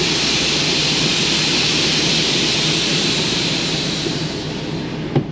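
Semi truck's diesel engine idling steadily under a loud hiss that fades away about four to five seconds in, followed by two short clicks near the end.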